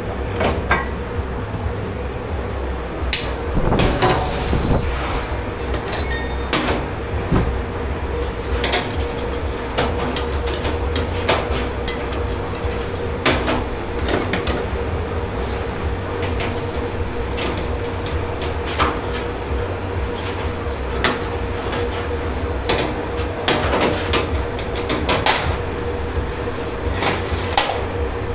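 Dishes, pots and cutlery clanking and knocking as they are handled in a commercial dish pit: scattered sharp clanks over a steady low machine hum, with a brief hiss about four seconds in.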